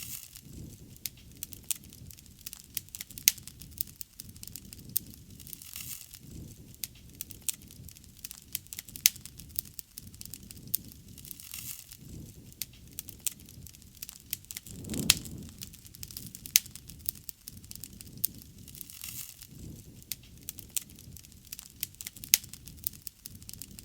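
Wood fire crackling and popping, with many sharp snaps over a low rumble of burning flames. The flame rumble swells louder for about a second, about fifteen seconds in.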